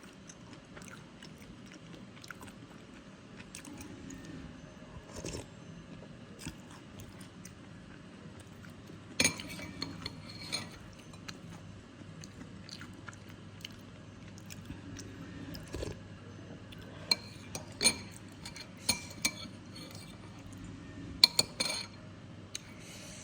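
Close-miked eating of soto mie noodle soup: steady chewing with soft crunches. A metal spoon clinks and rings against the bowl several times, most in the second half.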